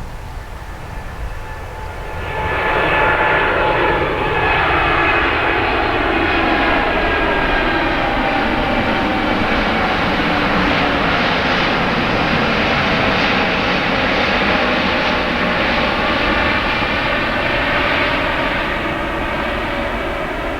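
Airliner's engines passing close by, the sound swelling sharply about two seconds in, with several tones that fall in pitch as it goes past, then staying loud and easing off slightly near the end.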